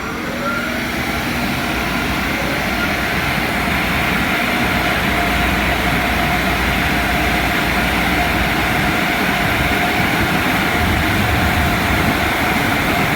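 Car wash air dryer blowers spinning up, a climbing whine that levels off about a second in, then blowing steadily. The loud rush of air carries a steady hum over it and grows gradually louder.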